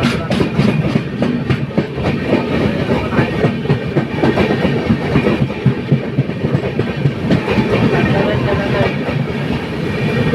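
LHB passenger coach running at speed: wheels clattering over the rails in a steady loud rumble, with a quick run of sharp clicks, about four a second, in the first second or so.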